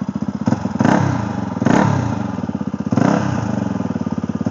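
Dirt bike engine idling with an even, rapid pulse, given a few short throttle blips that rise and fall back to idle.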